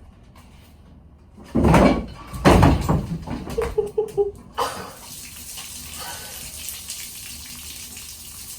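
A heavy engine block crashing and banging down for about three seconds, then coolant (antifreeze) pouring out of it with a steady hiss.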